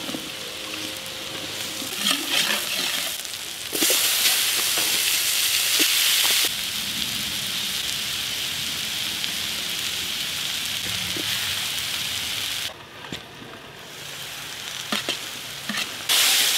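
Onions, bell peppers and beef strips sizzling as they fry in a large wok over campfire coals, with the scrape and clack of a spatula stirring them. The sizzle grows louder for a couple of seconds about four seconds in, drops briefly near thirteen seconds, and comes back loud near the end.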